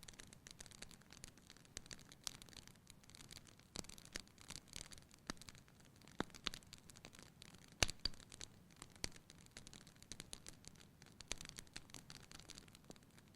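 Wood fire crackling in a fireplace: irregular small pops and snaps over a faint steady hiss, with one sharper pop about eight seconds in.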